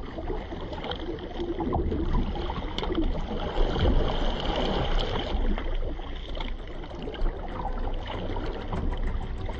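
Water splashing and lapping around a kayak being paddled, irregular small splashes with a steady low rumble underneath.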